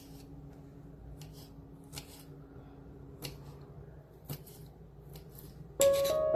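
Soft, scattered rustles and light clicks of something being handled in a kitchen, over a faint steady hum. Piano music comes in near the end, louder than everything before it.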